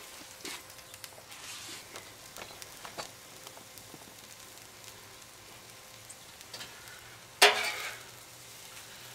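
Eggs, hash browns, hot links and toast sizzling steadily on a Royal Gourmet 36-inch flat-top griddle, with a few faint ticks. About seven and a half seconds in there is one sharp, loud scrape of a metal spatula on the steel griddle top.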